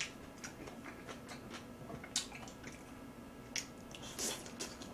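Close-miked chewing and mouth sounds: a scatter of short, wet clicks and smacks at uneven intervals, over a faint steady low hum.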